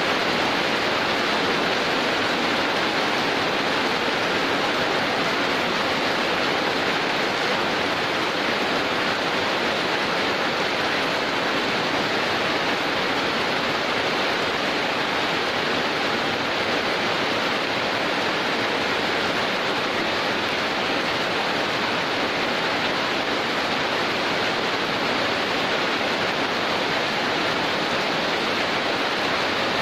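Heavy rain falling steadily: a dense, even hiss that holds unchanged throughout.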